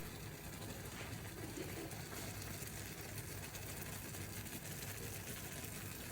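Steady even hiss with a low hum underneath.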